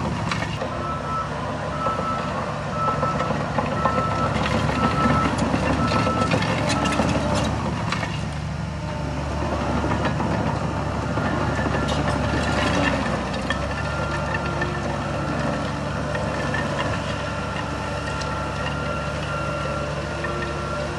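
Diesel engine of heavy earthmoving machinery running, with a reversing alarm beeping a little more than once a second for the first seven seconds or so. The engine keeps running after the beeping stops, its pitch shifting for a few seconds around the middle.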